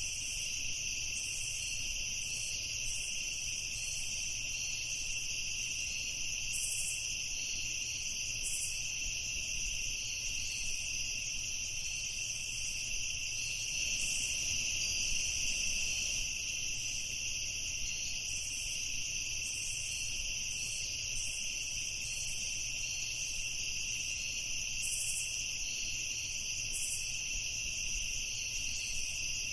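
Night insect chorus of crickets: a continuous high trilling, with short higher chirps here and there.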